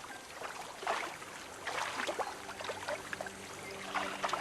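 Faint water sounds: small splashes and trickling. From about two seconds in, a low steady hum joins them.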